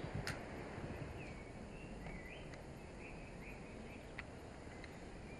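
Faint outdoor ambience: a low background hiss with a few short bird chirps, and a couple of light clicks.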